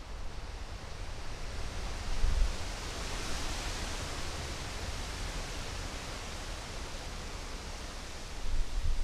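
Wind recorded through a GoPro Hero3's microphone behind a homemade fur windshield: a steady rushing hiss that swells in the middle, with low rumbling buffets from gusts on the microphone about two seconds in and near the end.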